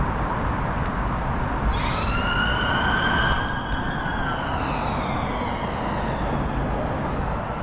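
An emergency vehicle siren sounding one long wail. It starts sharply about two seconds in, rises briefly, then slowly falls in pitch and fades, over a steady background of traffic noise.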